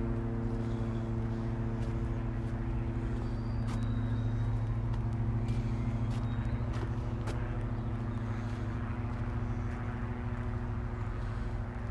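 A nearby engine running steadily with a constant-pitch hum, with a few light clicks over it.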